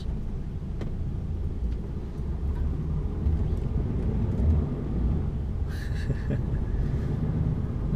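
Diesel engine of a rigid lorry running at low speed, a steady low rumble heard from inside the cab, with a short higher-pitched noise about six seconds in.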